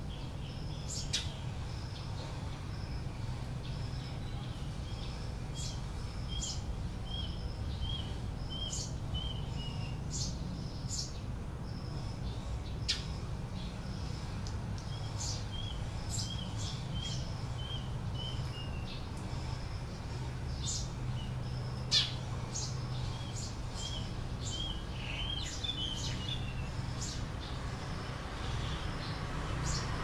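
A bird calling in three runs of about eight short notes each, the notes coming roughly twice a second and dropping in pitch at the end of each run, over a steady low rumble. Scattered sharp ticks fall between the calls, the loudest about 22 seconds in.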